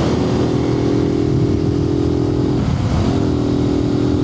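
Suzuki TU250X's 250 cc air-cooled single-cylinder engine running steadily while riding, heard through a microphone inside the rider's helmet. Its note wavers briefly about two and a half seconds in, then settles again.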